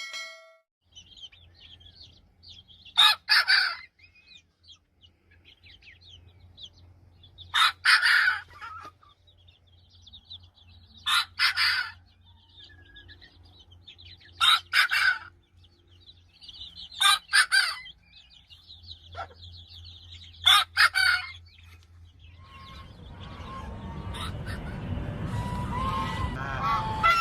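Chickens calling: six loud calls spaced a few seconds apart, with faint small-bird chirping between them. Over the last few seconds a noisy din builds up.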